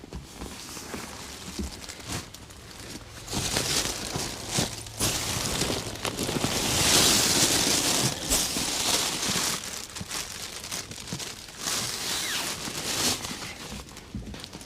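Rustling and crinkling of material being handled, coming in irregular bursts, with the longest and loudest stretch from about six to eight seconds in.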